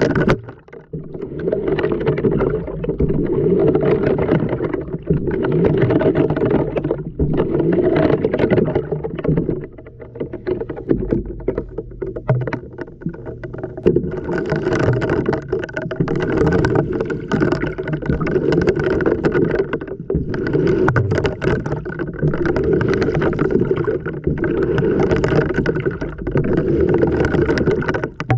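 Water and laundry sloshing in a washing machine's tumbling drum, picked up by a camera tumbling inside the drum, in regular surges about every two seconds.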